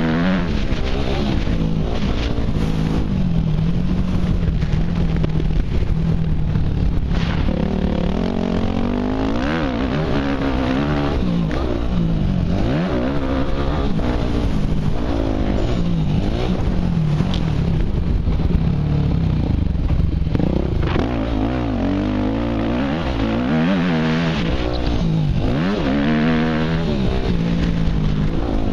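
Motocross dirt bike engine revving up and falling back again and again, with its pitch climbing and dropping every second or two as the rider accelerates and backs off.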